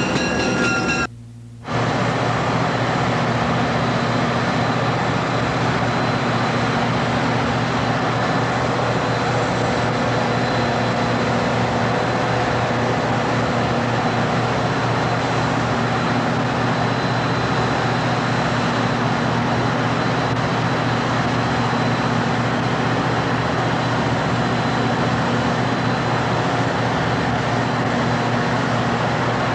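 Amtrak passenger train's diesel locomotive standing at the platform, giving a steady, unchanging drone with a constant-pitch hum. The sound drops out briefly about a second in.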